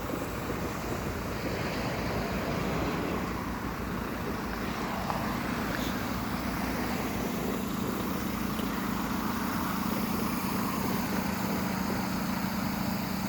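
Motor vehicle engine running steadily amid road noise, its low hum growing stronger about halfway through.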